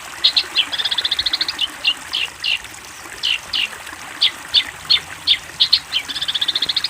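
Long-tailed shrike (cendet) song: a series of short, sharp downslurred notes, broken twice by a fast rattling trill, once about a second in and again near the end, over a steady hiss.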